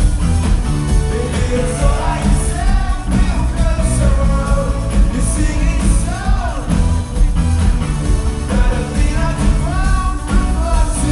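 Rock band playing live at full volume, with a singer's voice over drums, bass and guitars.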